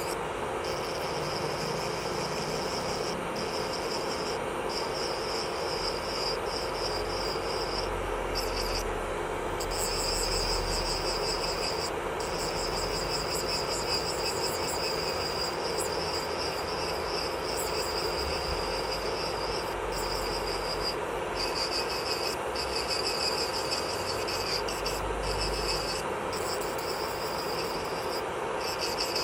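Electric nail drill (e-file) running steadily with a high-pitched whine, which drops out for a moment every few seconds.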